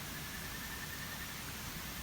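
Steady rushing of a mountain stream, an even hiss, with a faint continuous high-pitched tone running through it.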